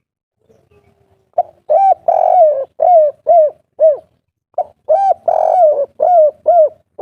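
Spotted dove (tekukur/derkuku) cooing twice in the 'kuk 3' style. Each phrase opens with a short note and a longer rolling coo, then ends with three short arched 'kuk' coos.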